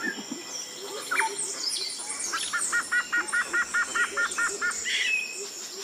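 Birds calling in open scrubland: scattered chirps, and in the middle one bird gives a rapid run of about a dozen repeated two-part notes, roughly five a second.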